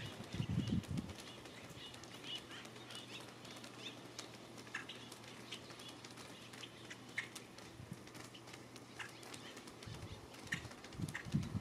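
Faint birds chirping: short, scattered high calls. A few low muffled thumps come in the first second and again near the end.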